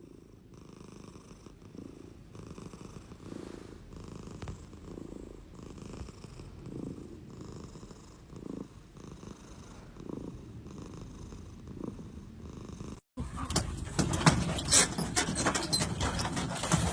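A domestic cat purring close up, in slow regular pulses about once a second. About thirteen seconds in it cuts off and gives way to louder scratchy clicking and rustling noises.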